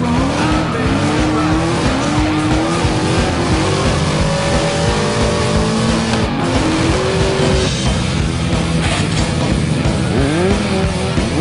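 Several motorcycle engines revving up and down over one another, with music in the background.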